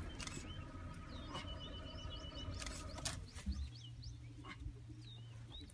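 Small birds chirping over a steady low rumble, with several sharp clicks scattered through.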